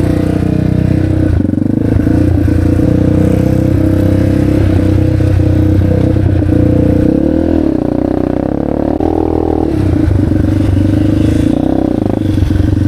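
Motorcycle engine running steadily under throttle, its note dipping and then rising again about halfway through.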